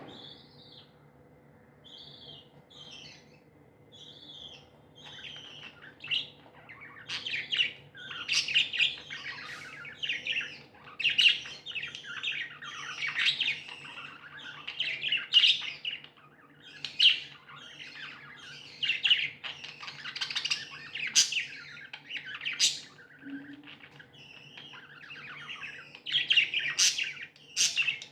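Pet budgerigars chirping and chattering: a few scattered chirps at first, then from about five seconds in a dense run of overlapping chirps with several sharp, louder calls.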